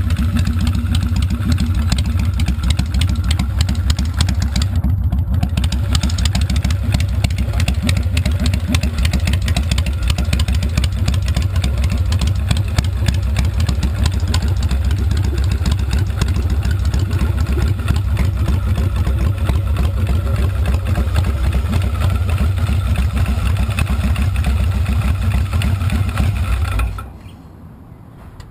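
Air-cooled V-twin engine of a custom Softail chopper idling steadily with an even low rumble, then switched off near the end.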